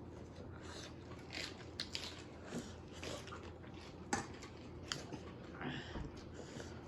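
A person eating close to the microphone: irregular biting and chewing noises with scattered sharp clicks, the sharpest about four seconds in.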